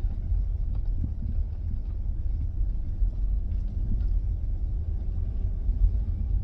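Steady low rumble of a vehicle driving slowly along the road.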